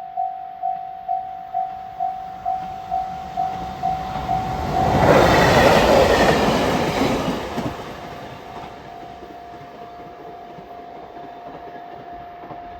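A level-crossing warning bell rings about twice a second, then a train passes the crossing about five seconds in. The train is the loudest sound for about two seconds and then fades away. After it has gone, the bell keeps sounding as a steady unbroken tone.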